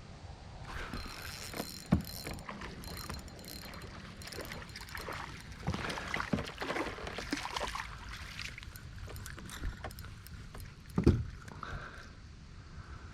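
Handling noise in a fishing kayak: rustling and small clicks with a few sharp knocks on the hull, the loudest about eleven seconds in.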